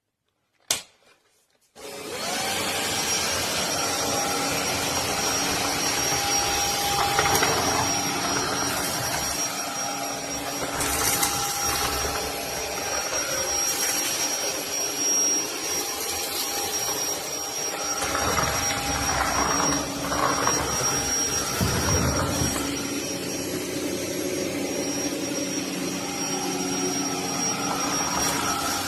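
FDUXUD cordless stick vacuum cleaner: a click, then its motor starts about a second later and runs steadily with a high whine over the rush of air. The low rumble swells for a few seconds past the middle of the run.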